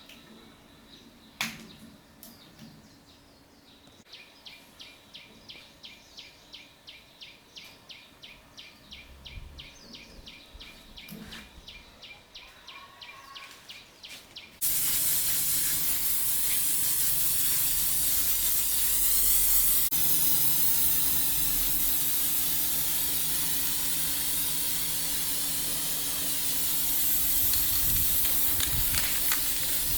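Faint, even ticking at about three a second. Then, about halfway through, a blower switches on all at once and runs with a loud, steady rush of air over a low hum.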